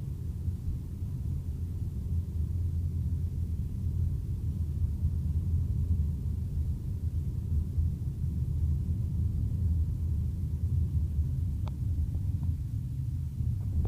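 Steady low road and engine rumble heard from inside a moving car's cabin, with a couple of faint clicks near the end.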